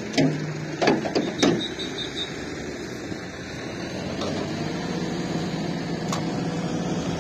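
A vehicle engine running steadily, a low even hum, with a few short knocks and clatters in the first second and a half and another single click near the end.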